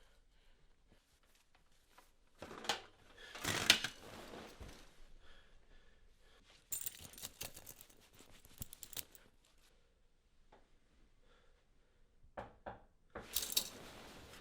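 Small hard objects clinking and rattling in three short spells of sharp clicks and clatter, the loudest about four seconds in.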